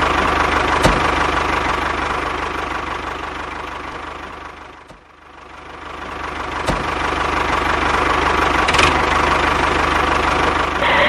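Small electric motor of a homemade mini tractor and drilling machine running steadily with a rattly hum. It fades down to a low point about five seconds in and then builds back up, with a few sharp clicks along the way.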